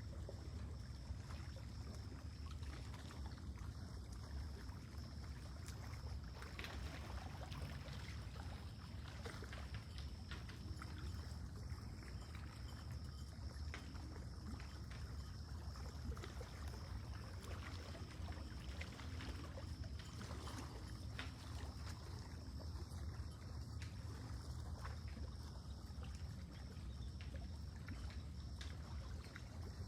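Lake water lapping gently, a steady soft wash with faint small splashes.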